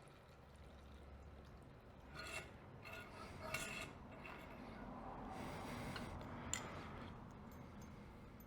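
Faint rubbing and scraping with a few small clicks: hands handling parts of a motorcycle fork, with a longer stretch of rubbing around the middle.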